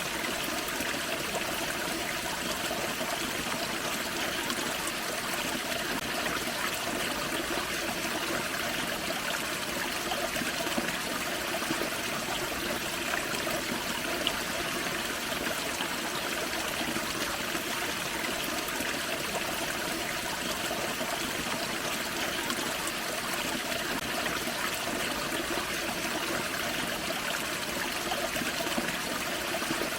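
Small forest waterfall and creek water running steadily, a continuous splashing trickle.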